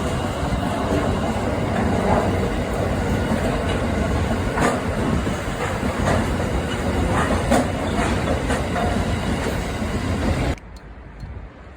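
Freight train passing close by: a loud, steady rumble of wagons with scattered sharp clacks of wheels over rail joints. The sound cuts off suddenly near the end, leaving a much quieter background.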